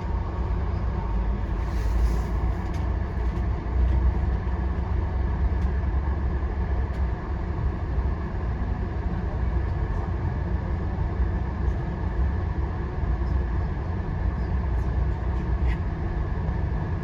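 Passenger train rolling along the track, heard from inside the car: a steady low rumble with a few faint clicks.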